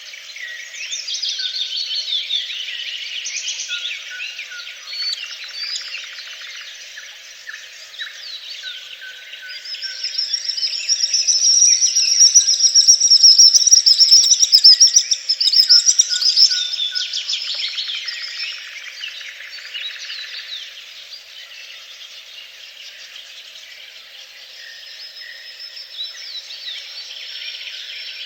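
A chorus of wild songbirds singing, many short chirps and whistles overlapping. A loud, rapid high trill runs through the middle, from about ten seconds in to about eighteen.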